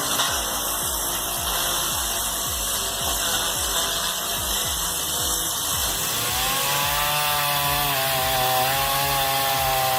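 Mechanical noise with a repeating low pulse, then from about six seconds in a chainsaw running at high revs, its pitch wavering slightly as it cuts.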